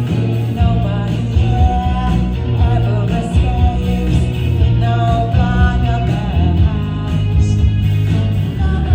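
Live rock band playing: a voice sings over guitar, bass and drums, loud and continuous.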